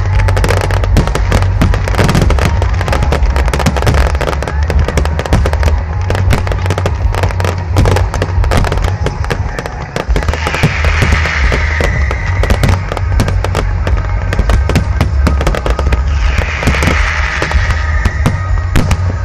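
Fireworks display: a rapid, continuous barrage of shell bursts and bangs over a low rumble, with two stretches of crackling hiss, about ten seconds in and again near the end.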